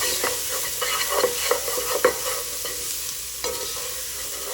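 Chopped onions sizzling in hot oil in a frying pan as they are stirred, a utensil clicking and scraping against the pan, most busily in the first two seconds and once more near the end.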